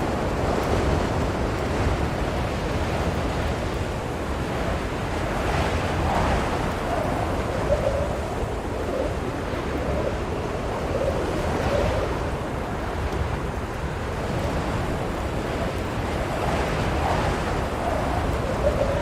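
Strong blizzard wind blowing steadily, swelling in gusts about every five or six seconds, with a faint wavering howl.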